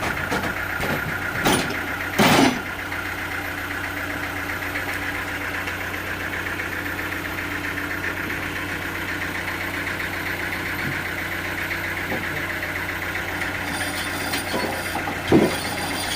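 Sawmill machinery running steadily, with a few loud knocks: two about two seconds in and one near the end.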